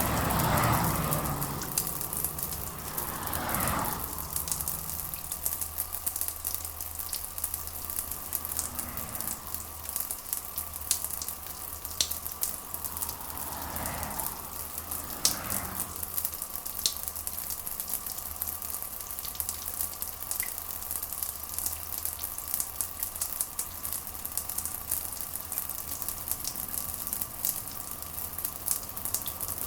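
Steady rain with a dense crackle of drops striking a surface. It swells briefly near the start and again about halfway through.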